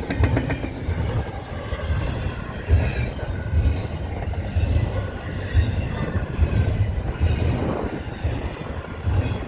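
Train rolling past on the mainline: a continuous rumble of railcars going by, with an uneven low booming throughout.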